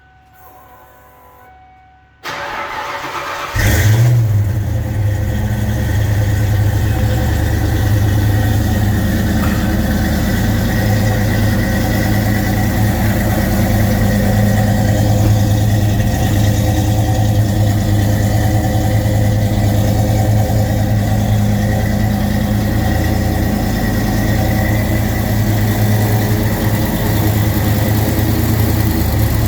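Saleen Mustang cold start: the starter cranks for about a second and a half, then the engine catches with a brief flare and settles into a steady idle.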